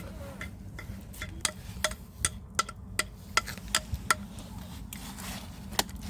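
A series of sharp, irregular clicks and knocks, about two or three a second, some with a brief ringing tone, over a low steady hum.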